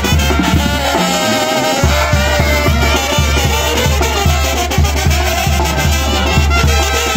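Banda sinaloense brass band playing: brass over a heavy, steadily pulsing tuba bass line. The bass drops out briefly about a second in.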